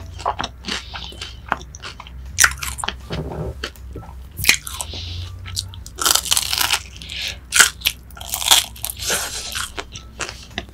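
Close-miked crunchy bites and chewing of a fried, breaded piece of food: a dense run of sharp crackles, loudest about two-thirds of the way through.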